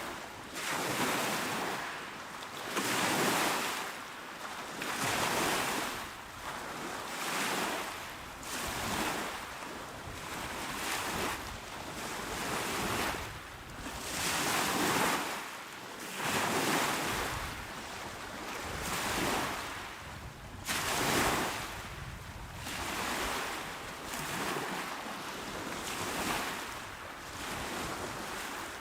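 Small, calm waves breaking on a shore, one wash of surf swelling and easing every second or two.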